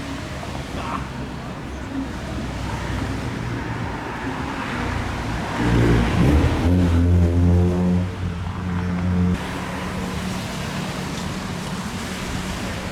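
Street traffic noise, with a motor vehicle's engine loud close by for about four seconds midway: its pitch drops, then holds steady, and it cuts off suddenly.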